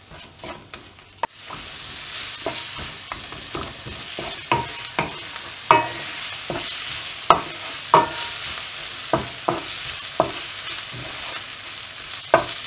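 Onions, green chillies and ginger-garlic paste frying in oil in a kadai, sizzling steadily, while a wooden spatula scrapes and knocks against the pan in repeated clicks as it stirs. The sizzle starts about a second in.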